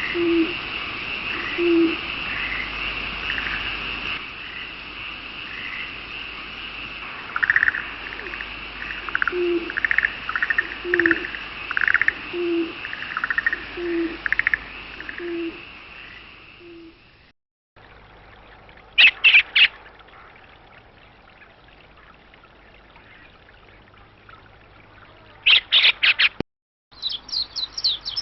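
A run of wild bird recordings: first a bird, owl-like, giving low single hoots about every second and a half among higher chirps over a steady high drone. After a short break, two brief rapid bursts of high notes, then another short break and a fast series of high chirps near the end.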